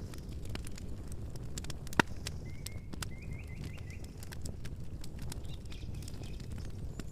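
Campfire burning with a low rumble and scattered crackles and pops, one sharp pop about two seconds in. A bird chirps a quick run of short notes a little later.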